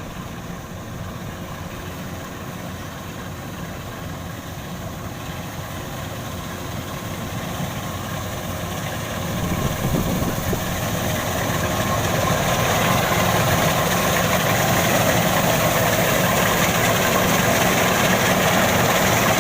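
Kubota rice combine harvester's engine running steadily, growing markedly louder about halfway through as the machine comes closer, then staying loud.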